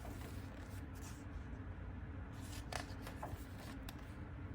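Faint rustling of a picture book's paper pages being handled and turned, with a few soft clicks a little past halfway, over a low steady hum.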